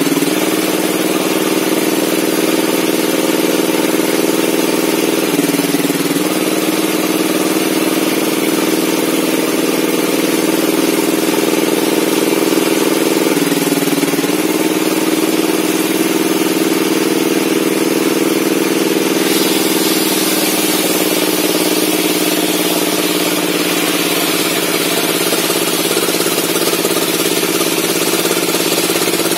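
Bench circular saw running steadily, its pitch dipping briefly a few times as the blade bogs under load in the wood, with a louder hissing cut noise during the last third.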